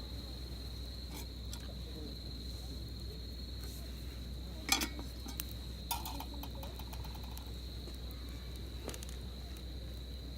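Insects trilling steadily on one high pitch, with two sharp clicks near the middle, the first the louder, the second with a short metallic ring.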